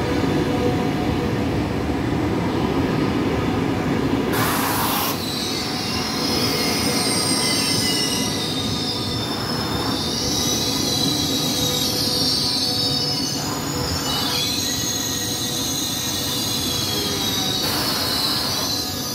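Frecciarossa high-speed electric train rolling along the platform and slowing to a stop. Its wheels squeal high-pitched from about five seconds in over a steady rumble, with a brief rush roughly every four seconds as the cars go by.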